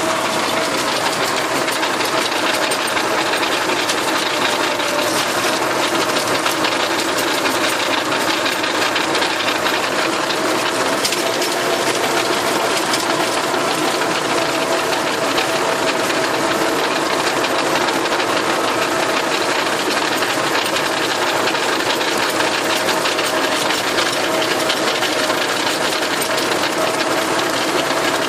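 Tractor engine running steadily while driving a rotary tiller, a dense mechanical clatter with one held tone through it.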